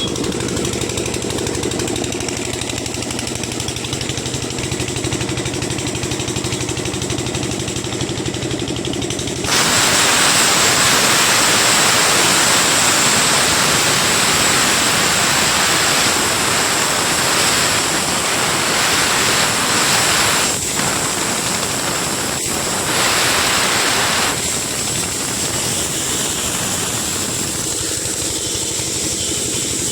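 A steady machine drone, like an engine or compressor running, throughout. From about ten seconds in, a loud, even rushing hiss sets in over it, broken twice for an instant near the end of that stretch, and stops about ten seconds before the end.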